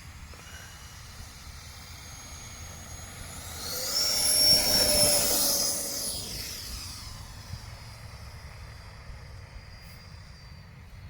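Electric ducted fan model jet passing close by: a high-pitched fan whine that swells about four seconds in, peaks briefly, then fades away over the next few seconds.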